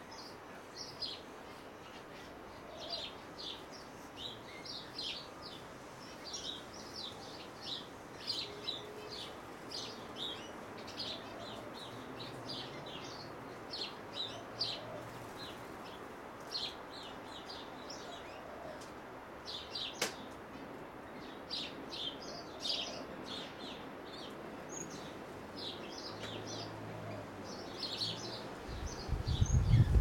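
Birds chirping: short high chirps, one or two a second, with a single sharp click about two-thirds of the way through and a loud low rumble near the end.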